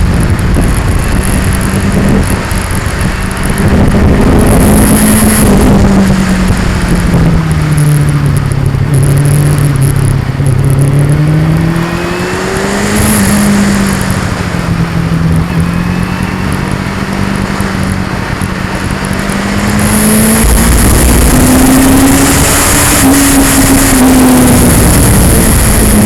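2002 Yamaha R6's inline-four engine running on the move, its pitch falling and rising several times with the throttle, highest near the end. Heavy wind and vibration noise on the action camera's microphone.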